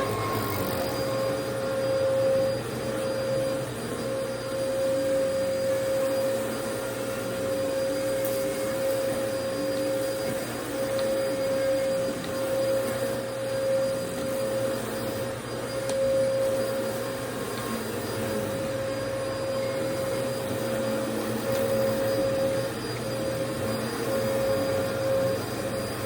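Vacuum cleaner running steadily, with a constant high motor whine over the rush of air. The loudness rises and falls slightly.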